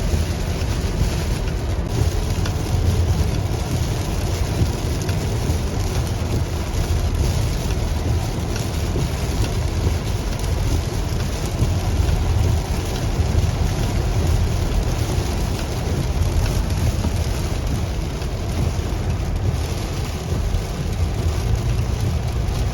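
Heavy rain falling on a moving car, a steady hiss over a continuous low road and engine rumble.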